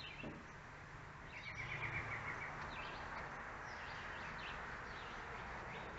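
Wild birds chirping, with a quick trill of repeated notes about one and a half seconds in, over steady outdoor background noise with a low hum.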